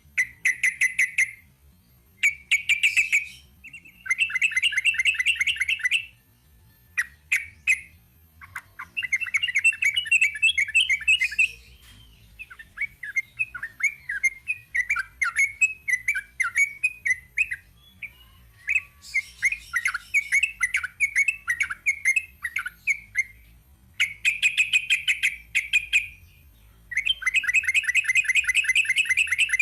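Yellow-vented bulbul (trucukan) singing in its rapid 'ropel' style. It delivers fast runs of bubbly repeated notes a second or two long, with short pauses between them, and a longer stretch of varied chattering notes through the middle.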